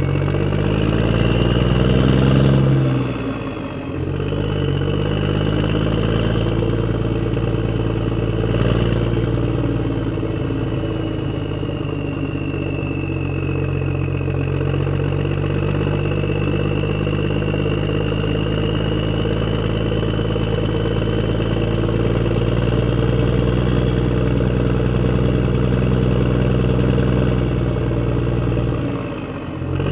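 Radio-controlled off-road truck running: a steady engine-like drone that climbs in pitch over the first few seconds, with a thin high motor whine slowly rising and falling above it.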